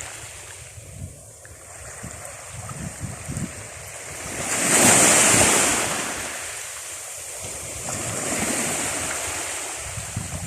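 Pacific Ocean surf washing onto the beach, with one wave swelling to a loud crash about halfway through and a smaller one near the end.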